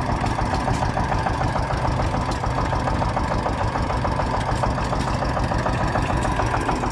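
An engine idling steadily, with a rapid, even running beat.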